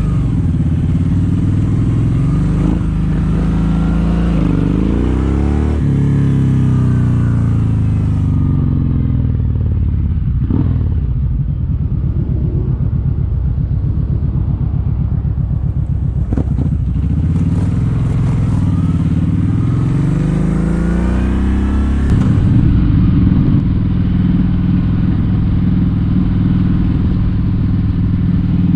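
Kawasaki Vulcan 1700 Vaquero's V-twin engine under way on the road. It rises and falls in pitch as the bike speeds up and slows through the gears, then holds a steady cruise, a little louder, for the last several seconds.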